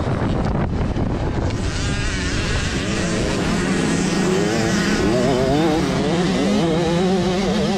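Motocross bikes racing on the track: several dirt bike engines running and revving, their pitches wavering up and down as the riders work the throttle.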